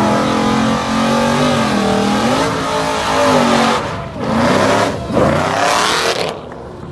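Car engine revving hard and held at high revs, its pitch wavering and dipping briefly twice before climbing again, with a loud hiss over it; it drops off near the end.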